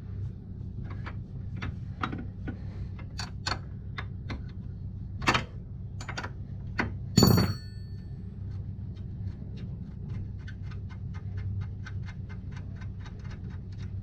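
Metal tool clicks and knocks, one loud ringing metal clank about seven seconds in, then a hand ratchet wrench clicking evenly, about four clicks a second, as a bolt is turned. A steady low hum runs underneath.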